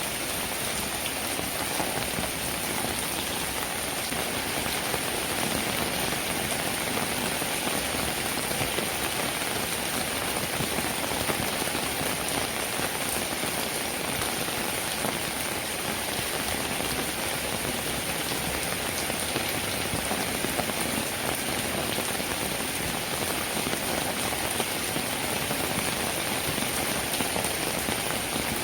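Steady, even rainfall with fine patter of raindrops.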